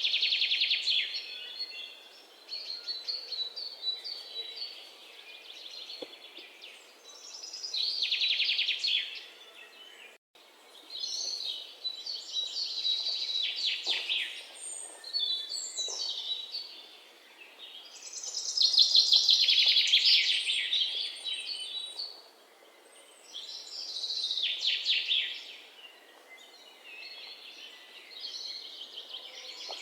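A bird singing, repeating short trilled phrases every few seconds, with a brief dropout about ten seconds in.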